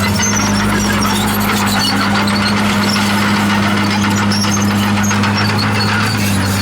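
Komatsu D51PX bulldozer's diesel engine running at a steady speed, with scattered short high squeaks and squeals from its steel tracks.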